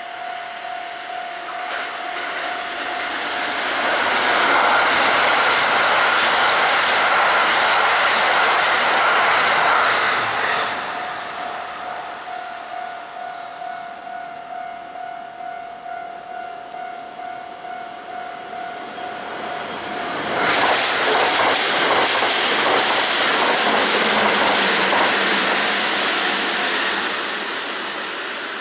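Two Kintetsu Osaka Line electric trains pass close by, one after the other. Each passage is several seconds of wheel-on-rail and running noise that swells, holds and fades. A steady ringing tone sounds at the start and again between the two trains, stopping as the second train arrives.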